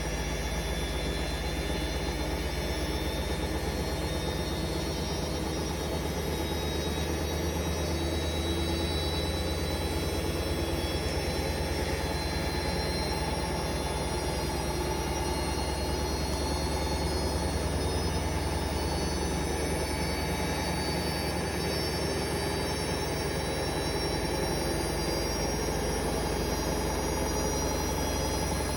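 Hoover Vision Dynamic washing machine in a high-speed spin on a 1400 rpm spin-only programme: a steady motor whine with several high tones over a low rumbling hum from the spinning drum.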